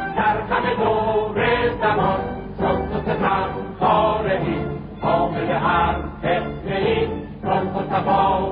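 Music: a choir singing a chant-like Persian song over instrumental backing.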